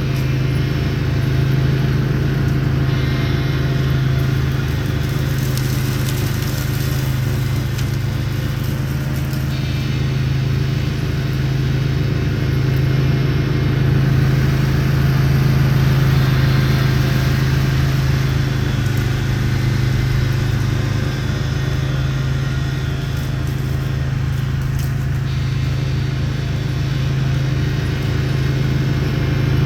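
Craftsman YT4000 lawn tractor engine running steadily while powering a front-mounted Bercomac 44-inch snowblower, with a constant low engine hum under a broad whooshing noise.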